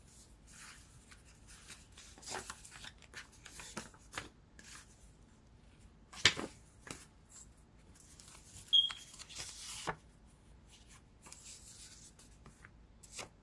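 Tarot cards being shuffled and handled: soft, irregular rustles and taps of card stock, with a sharper snap of cards about six seconds in.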